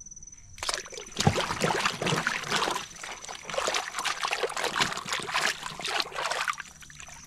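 Water splashing and sloshing as a toy is washed, starting about half a second in and stopping shortly before the end.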